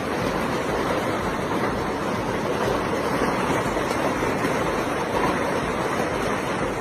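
Hailstorm: a dense, steady clatter of many hailstones striking hard surfaces all at once.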